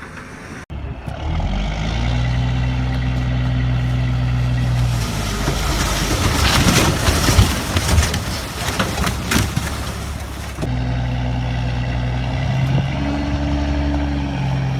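Heavy truck engine running with a steady low hum, broken in the middle by several seconds of loud clattering and knocks. After a cut the engine hum returns, its pitch shifting up and back down near the end.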